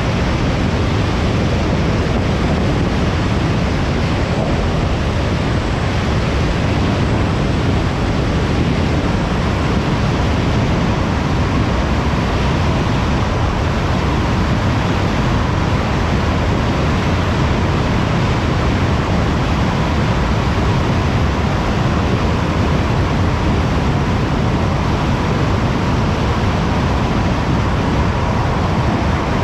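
Car driving at motorway speed: steady tyre and wind noise with no breaks. A faint steady whine comes in about halfway through.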